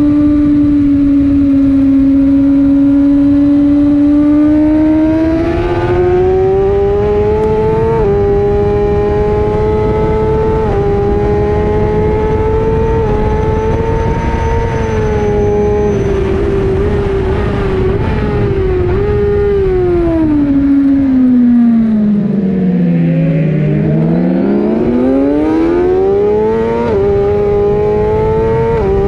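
Suzuki GSX-R1000 inline-four engine running hard on track, its pitch climbing through the gears with a short drop at each upshift. About two-thirds of the way through the revs fall smoothly off the throttle, then climb hard again with another upshift near the end, over steady wind rush.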